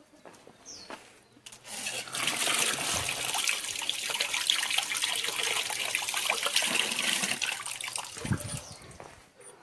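Water pouring steadily, starting about a second and a half in and tailing off near the end.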